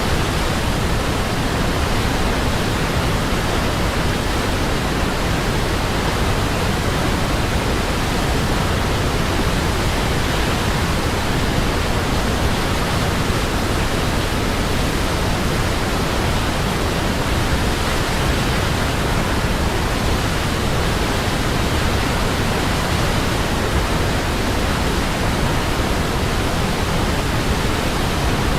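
Waterfall rushing steadily, a constant even roar of falling water with no change in level.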